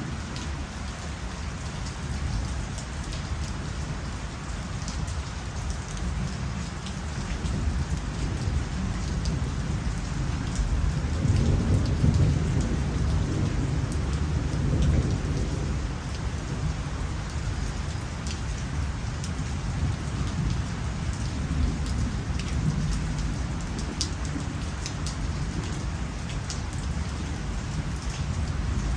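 Steady rain falling, with scattered sharp drop ticks. A low rumble of thunder swells and fades between about a third of the way in and halfway.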